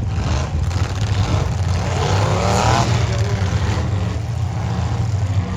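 Demolition derby car engines running loud with a steady low rumble. About two seconds in, one engine revs up briefly, its pitch rising.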